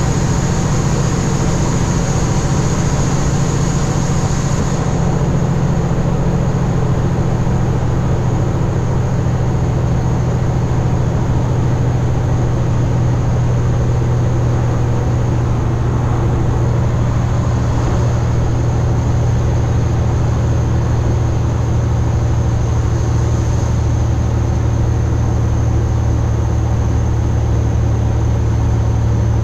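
Kenworth W900 semi truck's diesel engine pulling hard at high RPM up a steep grade under a full load, a steady drone that holds the same pitch with no gear change.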